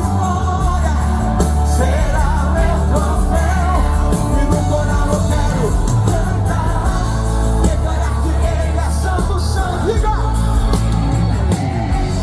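Live gospel band music with singing over a heavy, steady bass.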